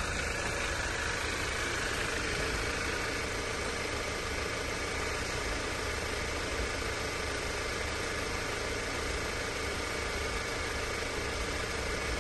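2017 Audi Q5's 2.0-litre turbocharged four-cylinder engine idling steadily.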